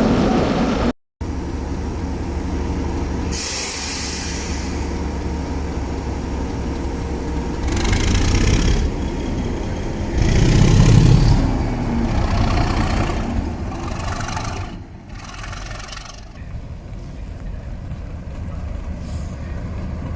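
Class 37 diesel locomotive's English Electric V12 engine running steadily, with several short hisses of air and a louder rumble about halfway through. The engine sound drops back after about fifteen seconds.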